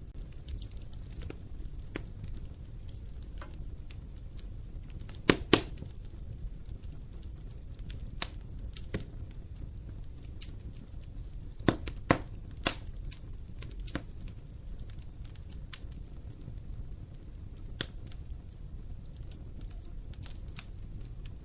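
Wood fire burning in an open fireplace: a steady low rumble of flames with irregular crackles and sharp pops, the loudest a quick double pop about five seconds in and a cluster of pops around twelve seconds in.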